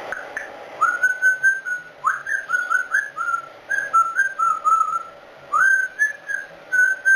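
Congo African grey parrot whistling a string of short clear notes, many sliding up at the start, in three phrases with brief pauses between them.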